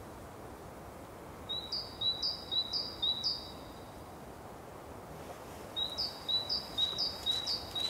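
A small songbird singing a repeated two-note phrase: a short steady note followed by a higher, falling one. It sings two runs, about four repeats and then about five after a pause, over faint steady outdoor background noise.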